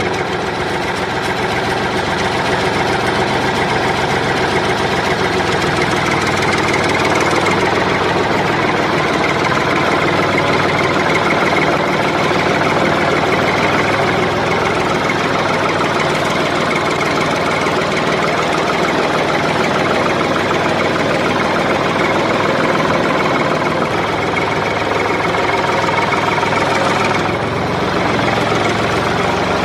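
A motor running steadily, with a fast chugging, engine-like drone and no pauses.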